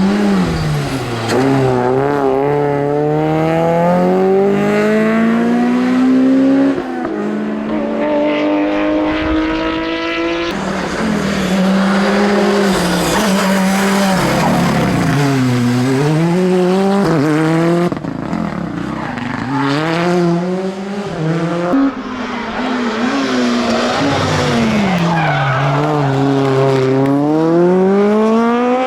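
Rally cars driven flat out on a mountain special stage, one after another: engines revving hard, pitch falling under braking for corners and climbing again through the gears as they accelerate away.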